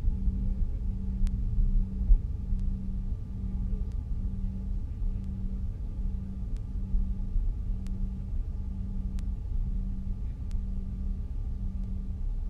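Cabin noise inside a Canadair regional jet taxiing: a steady low rumble with the jet engines' hum and thin high tones over it, and a low tone pulsing a little faster than once a second.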